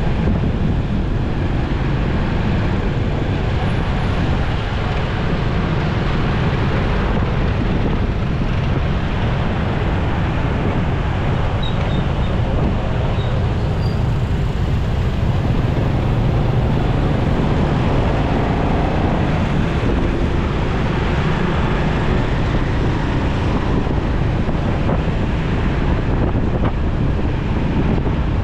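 Steady wind rush on the microphone and road noise from a motorcycle riding in traffic.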